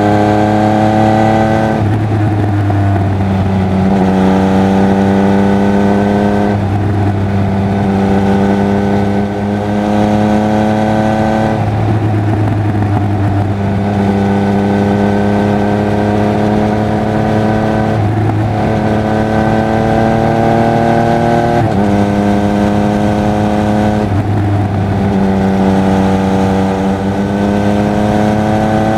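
Triumph Speed Triple 1200 RR's three-cylinder engine and exhaust under way. The revs climb slowly, then drop sharply, again and again, several times over.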